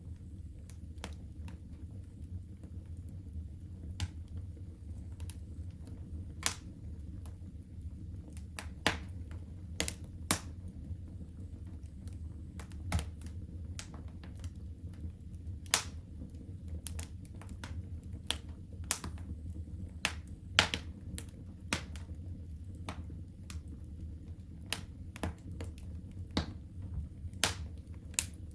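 Wood fire in a home fireplace crackling, with irregular sharp pops and snaps over a steady low rumble of the flames; a handful of pops stand out louder.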